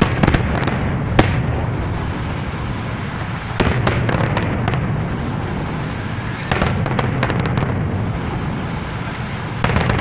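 Fireworks going off: four clusters of sharp crackling pops, about three seconds apart, over a continuous low rumble.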